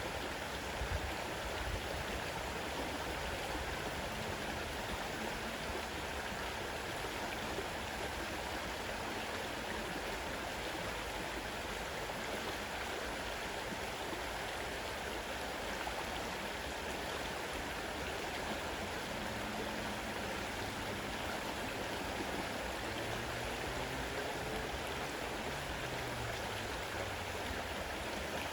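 A fast-running river rushing steadily over its bed.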